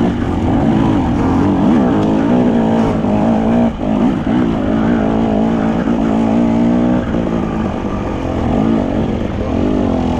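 Enduro motorcycle engine running hard, its pitch rising and falling repeatedly as the throttle is opened and closed.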